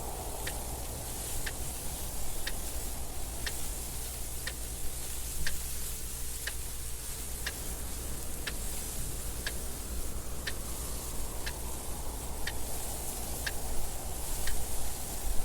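Clock ticking steadily, about one tick a second, over continuous wind noise with a low rumble and a hiss that swells and eases.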